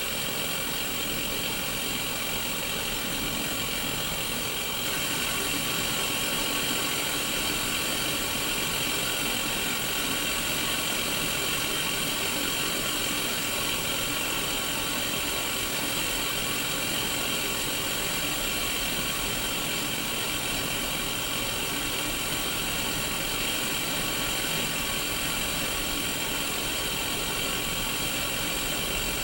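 Steady static hiss from the speaker of a Sony Mega Watchman black-and-white pocket CRT TV left on an untuned channel, with faint steady tones running through it. It gets slightly louder about five seconds in.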